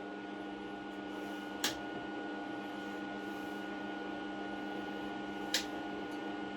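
Steady electrical hum of a powered-up MIG welder, holding several constant tones, with two sharp clicks, one about a second and a half in and one near the end.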